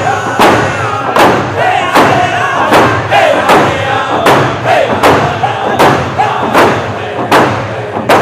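Round dance song: a group of men singing in unison, over hand drums struck in a steady beat about every three-quarters of a second.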